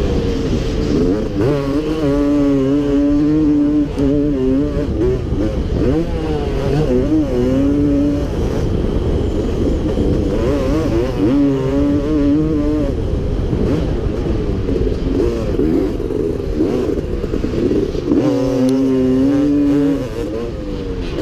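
A 1989 Yamaha YZ250 two-stroke single-cylinder motocross engine being ridden hard. It revs up and holds high, then drops off as the throttle is closed, several times over as it works through the track's straights and corners.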